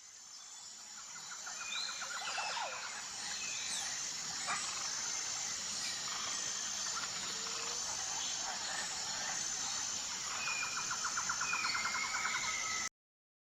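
Outdoor ambience of birds calling with scattered chirps and whistles, and two rapid trills, over a steady high-pitched insect drone. It fades in at the start and cuts off abruptly shortly before the end.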